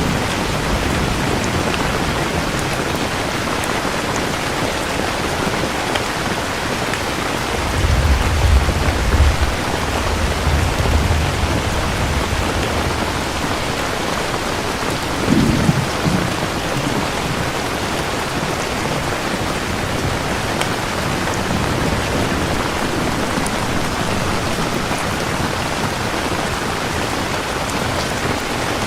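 Steady heavy rain falling, with rolls of low thunder rumbling about a third of the way in and a short crack of thunder about halfway through.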